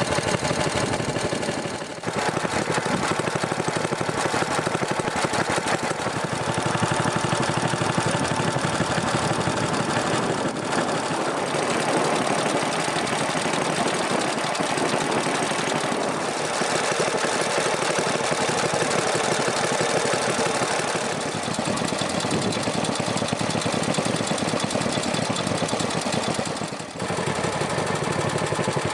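Air-cooled Kubota stationary engines running steadily at idle with a rapid, even firing beat. The level dips briefly about two seconds in and again near the end.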